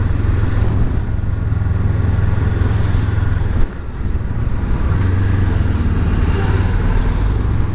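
Honda CB500X motorcycle's parallel-twin engine running at low speed in slow traffic, steady, with a brief drop in level about three and a half seconds in.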